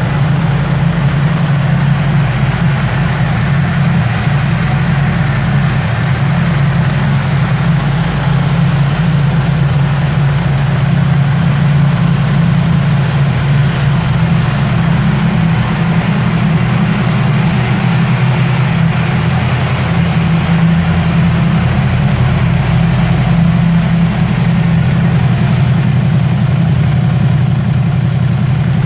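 Yamaha R1's crossplane inline-four engine idling steadily, with no revving.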